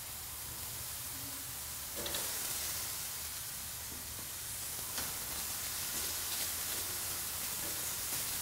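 Diced bacon and onion sizzling in olive oil in a stainless steel frying pan, a steady hiss, with a couple of light clicks about two and five seconds in.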